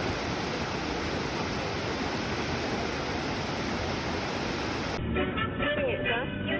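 A steady, even hiss with no tone in it, which cuts off suddenly about five seconds in. Music with singing takes over, sounding duller and more band-limited.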